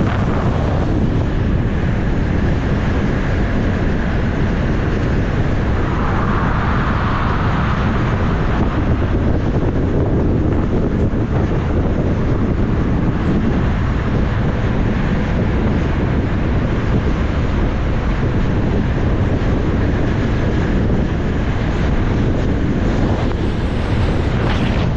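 Steady wind blasting over the microphone of a moving motorcycle, with the motorcycle's engine and road noise underneath.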